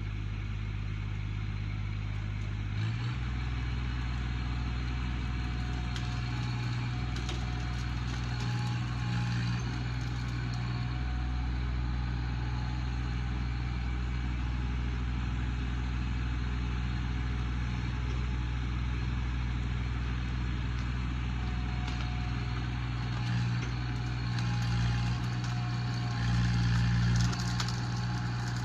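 Tractor engine running steadily, working as it pushes brush, its note swelling briefly a couple of times near the end.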